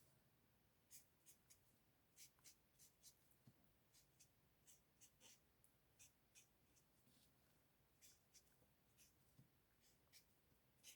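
Faint, irregular scratchy strokes of a marker's brush tip flicking across cardstock as a stamped image is coloured in; otherwise near silence.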